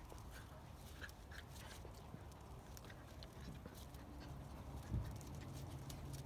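Andalusian bodeguero puppies play-wrestling, faint scuffling with many small claw and paw taps on the floor. There is a single bump about five seconds in.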